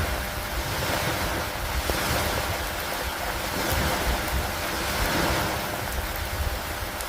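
Steady rain with wind and lake water, a continuous wash of noise that swells and eases every couple of seconds over a low rumble.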